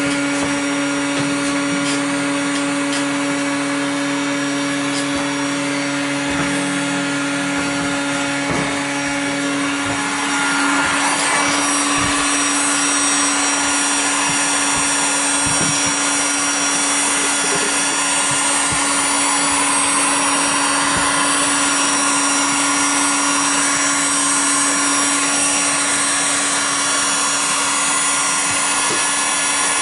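Small electric blower motor running steadily close by, a constant hum under a hiss of air. About ten seconds in, the sound grows louder and hissier.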